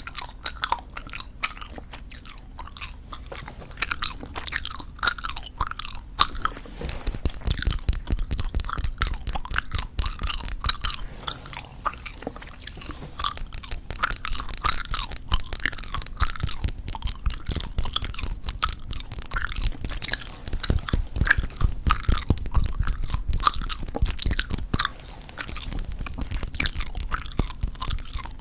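Close-miked chewing of soft tube bubblegum: continuous wet smacking and sticky clicking mouth sounds at an uneven pace. A low rumble runs underneath from about six seconds in until near the end.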